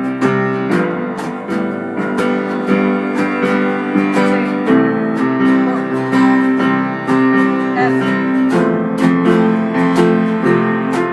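Amateur live jam of acoustic guitar strumming chords, with a held keyboard chord underneath. The chord changes every two to four seconds.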